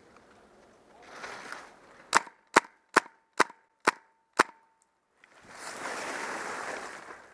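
Airsoft gun firing six single shots, each a sharp snap, about two a second. After them comes a few seconds of steady rustling noise.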